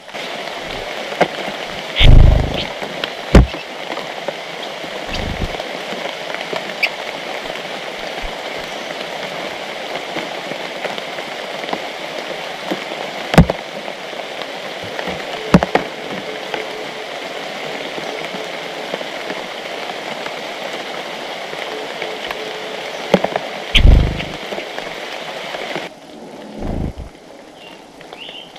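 Steady rain falling on leaves, with a few heavy thuds of drops striking close to the microphone. The rain cuts off suddenly near the end.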